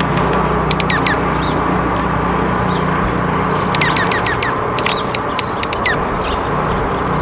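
Small birds calling in short, sharp chirps that sweep down in pitch, in quick clusters about a second in and again from about four to six seconds in, over a steady low rumble.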